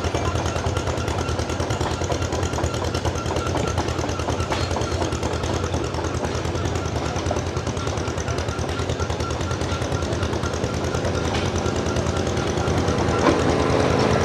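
An engine running steadily with a fast, even chugging pulse; near the end another steady hum joins in and it gets a little louder.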